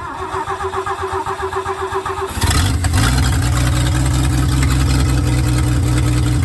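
1960 Ford F100 pickup's engine doing a cold start after sitting all winter. The starter cranks it with an even rhythmic whirring for a little over two seconds, then the engine catches and runs steadily.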